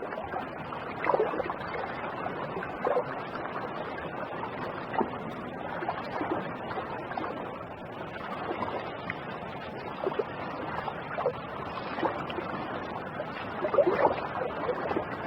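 Steady water sloshing with irregular short clicks and taps, thickest about a second in and again near the end.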